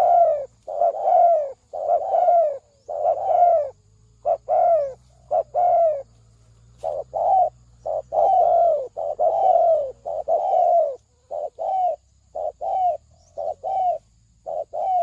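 Spotted dove cooing: a long run of short coos, each falling in pitch, delivered in quick groups with brief pauses about four and six seconds in.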